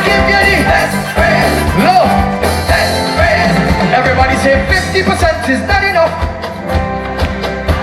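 Live band music with singing voices over a steady, loud bass line.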